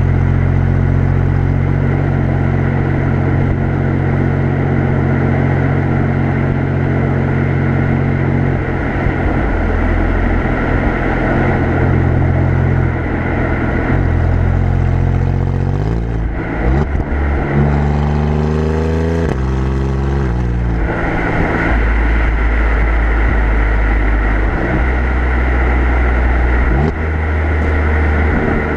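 Alfa Romeo Giulia Quadrifoglio's twin-turbo V6 exhaust, heard from right at the rear bumper, droning steadily at cruise. About two-thirds of the way in it accelerates through three quick upshifts, the pitch rising and dropping at each shift, then settles back to a steady cruise.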